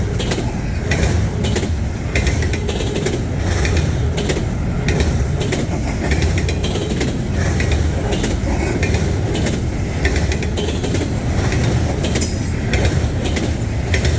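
Canadian Pacific train rolling slowly past on the track: a steady low rumble with a run of short wheel clicks.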